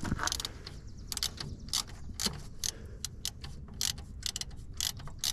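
Hand socket ratchet clicking as it is worked back and forth, a few sharp clicks a second in an uneven rhythm.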